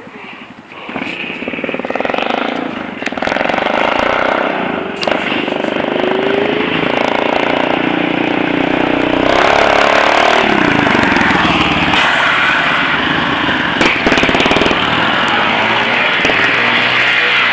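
Motorcycle engine revving hard, growing loud about a second in; its pitch climbs and then drops steeply about ten seconds in.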